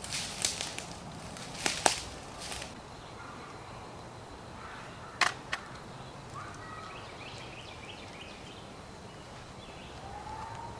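Outdoor sounds: a few crackling snaps, then a single sharp click about five seconds in, followed by faint short chirping calls.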